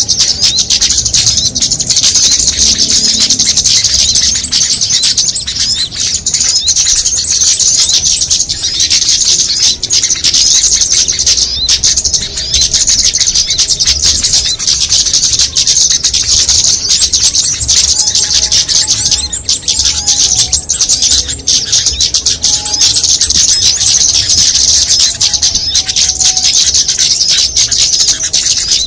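A bird-lure recording of many small songbirds layered together: a dense, unbroken, high-pitched chatter of rapid chirps and ticks, with a few lower whistled notes about two-thirds of the way in.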